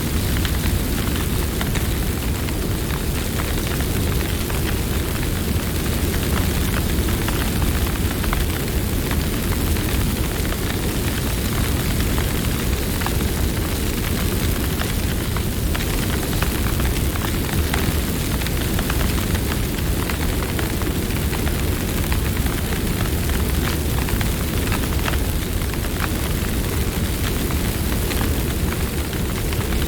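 Campfire burning: a steady low rumble of flames with scattered sharp crackles and pops throughout.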